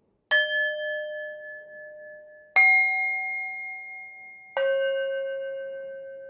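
Singing bowls struck three times, about two seconds apart, each at a different pitch. Every strike rings on and fades slowly; the second is the highest, the third the lowest.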